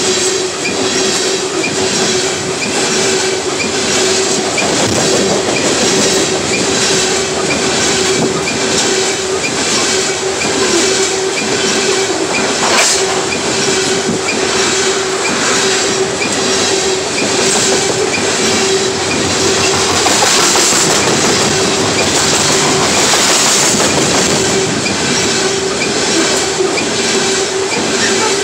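Loaded coal hopper cars of a freight train rolling past close by: a steady rumble with a regular clickety-clack of wheels over rail joints and a steady wheel squeal running through. There is one sharper click about halfway.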